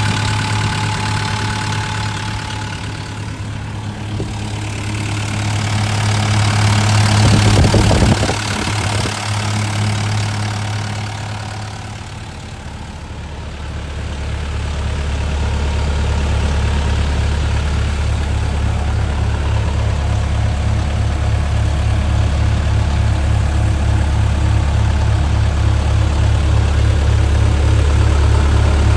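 Diesel engine of a Caterpillar CAT 310 excavator running steadily. About halfway through, the engine note drops to a lower, steady pitch.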